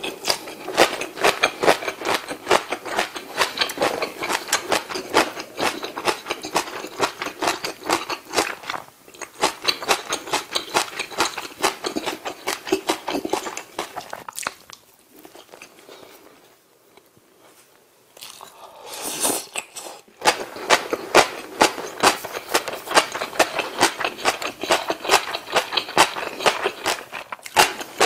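Close-miked eating sounds: rapid wet chewing and crunching of rice and Korean side dishes, a dense run of small clicks and smacks. The mouth noises drop to a quieter spell a little past the middle, then pick up again.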